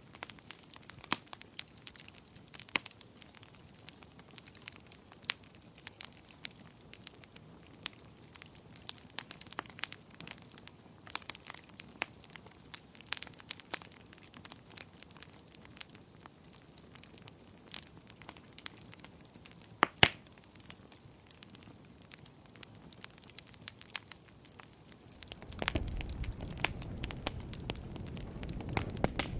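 Wood fire crackling in a fireplace: irregular sharp pops and snaps over a faint hiss, with one louder pop about two thirds of the way through. Near the end a louder, low rumbling noise comes in.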